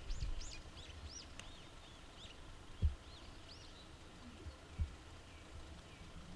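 Small birds chirping: a quick series of short, arching high notes that thins out and stops about four seconds in. Two dull low thumps fall about three and five seconds in, the first the loudest sound.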